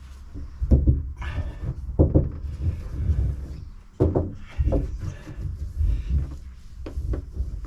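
Dull knocks and rustling as self-adhesive sound-deadening mat is pressed and smoothed by hand onto the van's metal panel, four or so knocks among the handling noise.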